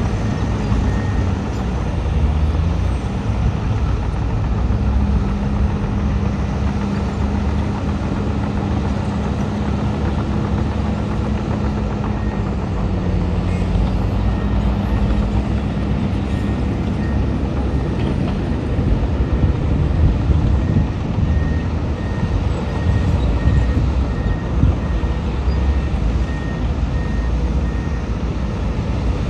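Heavy diesel earthmoving machinery working: a bulldozer's and dump trucks' engines running under load with a deep steady rumble. A reversing alarm beeps at an even pace, on and off, mostly in the second half.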